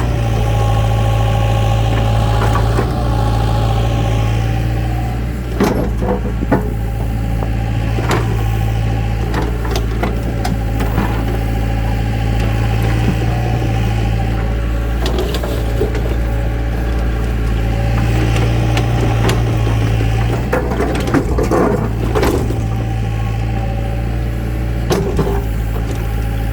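A heavy machine's engine running steadily at a constant speed, with scattered clattering knocks.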